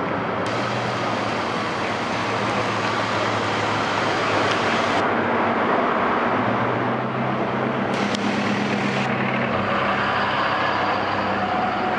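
Steady highway traffic and road noise with a low engine hum. A brighter rush of hiss comes in about half a second in for several seconds, and again briefly around two-thirds of the way through.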